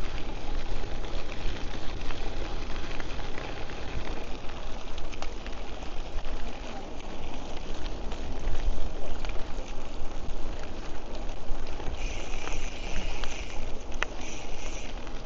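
Wind rushing over the microphone of a riding cyclocross bike, with a low rumble and a patter of small ticks from the tyres rolling over the path. About three-quarters of the way through, a high steady buzz joins in.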